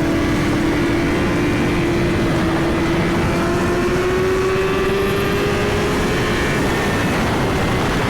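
Suzuki GSX-R1000 inline-four engine running at highway speed, its pitch climbing slowly over several seconds as the bike gently speeds up, under a steady rush of wind noise.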